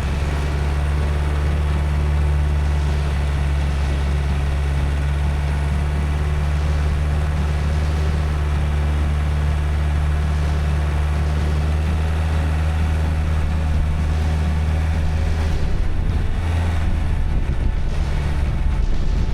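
Vehicle engine running steadily while driving, a constant low drone.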